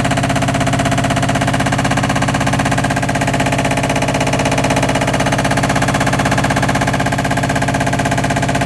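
All-in-one washer dryer combo in its spin cycle, making a very loud, steady, fast rattling hum. The noise comes only with the spin, a sign of a fault in the spinning drum.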